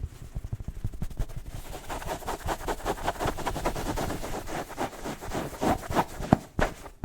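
Fast, aggressive scratching and tapping on hard objects for ASMR: a dense flurry of rapid scratching strokes that gives way to sharper, separate taps near the end.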